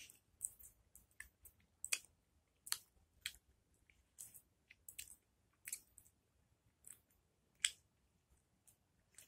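A person biting and chewing a raw green lemon slice: faint, irregular sharp clicks, one to three a second, with one louder snap near the end.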